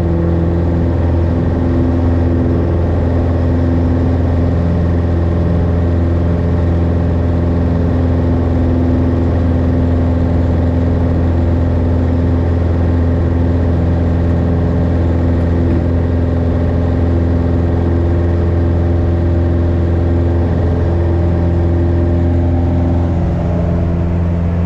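Light aircraft's engine and propeller running steadily: a loud, even drone with a deep hum and several steady tones above it.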